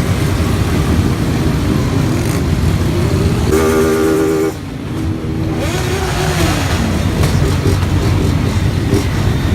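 Motorcycles running in a crowded procession, with a steady engine and road noise. A vehicle horn sounds for about a second, a little past a third of the way in, and shortly after an engine revs up and back down.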